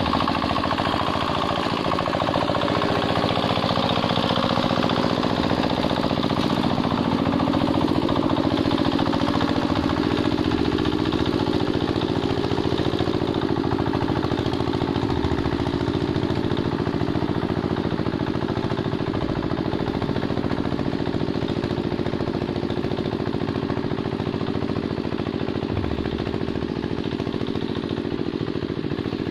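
Single-cylinder diesel engine of a Quick Capung Metal hand tractor running steadily.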